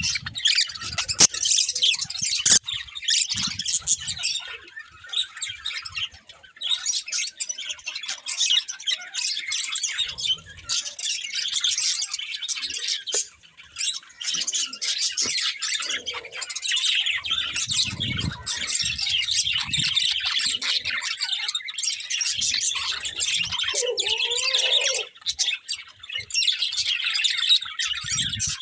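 Budgerigars chirping, a dense, quick high-pitched twittering that runs almost without a break, with a couple of brief pauses.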